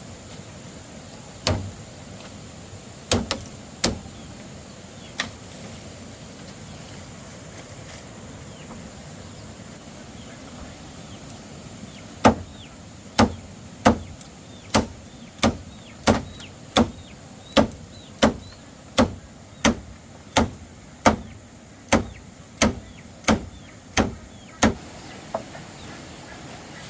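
Repeated sharp blows of a hand tool, chopping or hammering: a few scattered strikes at first, then a steady run of about three blows every two seconds from near the middle until just before the end.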